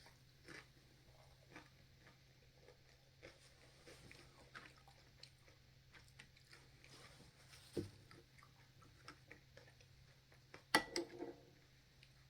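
A person chewing food close to the microphone: faint, scattered mouth clicks and crunches, with a louder click and a short crunch about eleven seconds in, over a low steady hum.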